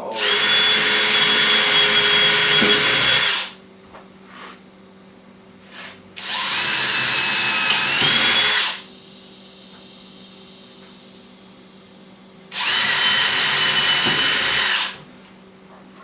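DeWalt drill running in three bursts of two to three seconds each, drilling into the wooden hive at marked spots; its whine steps up in pitch near the end of the second burst.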